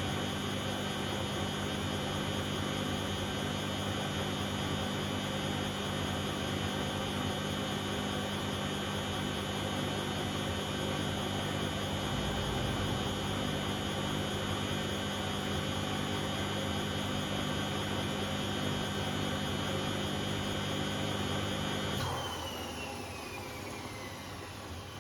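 Bosch Classixx 6 washing machine on its 600 rpm intermediate spin, a steady whine of motor and spinning drum. About 22 seconds in, the motor cuts out and the whine falls in pitch as the drum coasts down, at the end of the spin before the first rinse.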